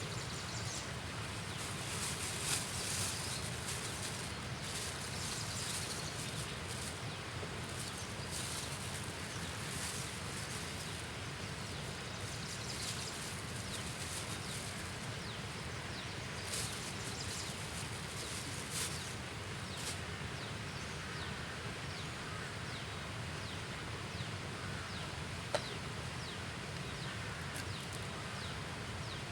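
Outdoor natural ambience: a steady low rush with scattered short, high insect chirps and buzzes, and one sharp tick near the end.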